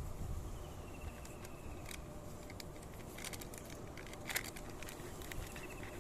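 Quiet outdoor background with scattered small clicks and ticks, thickest in the middle, and a faint thin high tone near the start and again near the end.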